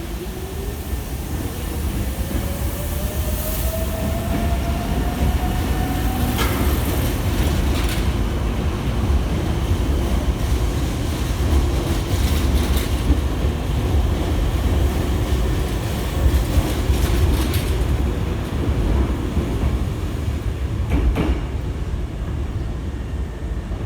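Hankyu electric train pulling out: its motors whine, rising steadily in pitch for about six seconds as it gathers speed. A steady low rumble follows, with occasional knocks as the wheels cross rail joints and points.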